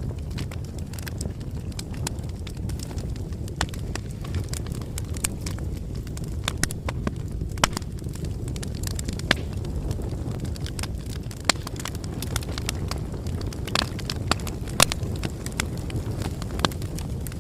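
Bonfire burning: a steady low rumble with frequent sharp pops and snaps at irregular intervals.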